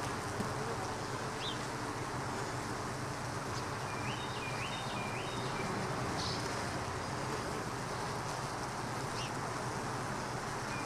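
Honeybees buzzing steadily around an opened hive, with a few short high chirps here and there.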